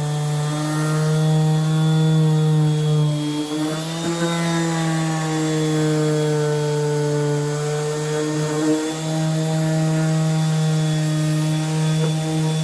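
Handheld electric sander running steadily on a weathered wooden tabletop, sanding back to bare grain. Its motor pitch dips briefly about four seconds in and again near eight seconds as it is pressed harder into the wood.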